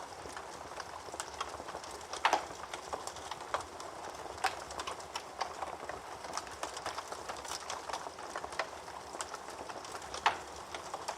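Wood fire burning in a fireplace: a steady hiss with many sharp crackles, and louder pops about two seconds in and near the end.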